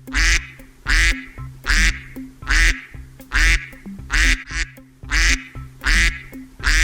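Duck quacking over and over, a loud quack about once a second at an even pace, with background music playing underneath.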